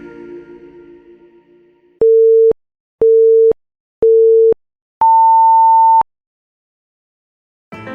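Electronic countdown beeps: three short, identical low beeps a second apart, then one longer, higher beep. Before them, the last notes of music fade out.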